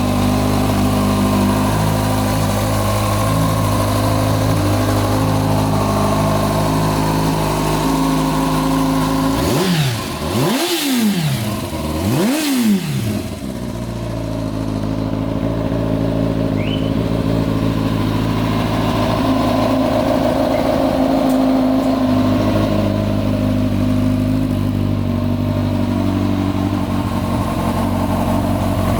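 2009 Kawasaki ZX-10R's inline-four engine idling steadily, revved twice about a third of the way through, the pitch rising and falling quickly each time before it settles back to idle.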